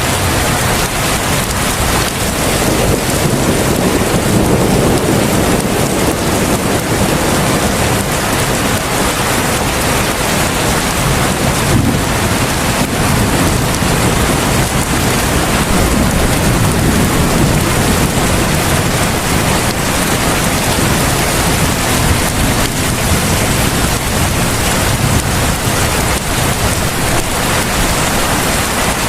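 Heavy rain pouring steadily as a dense, even hiss. A low rumble swells and fades a couple of times underneath it.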